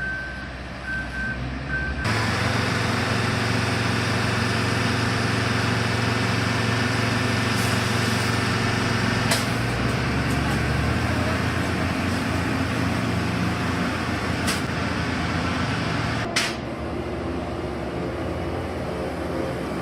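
Heavy road-construction machinery running steadily with a low diesel drone. A reversing alarm beeps a few times during the first two seconds, and there are a few sharp clicks later on.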